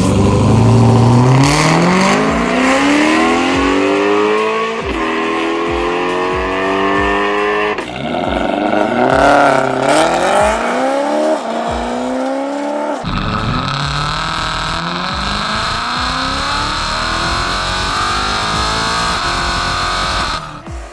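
BMW M3 E9X's 4.0-litre V8 through an aftermarket valved exhaust, accelerating hard through the gears. The pitch climbs in long sweeps and drops back at each of several upshifts.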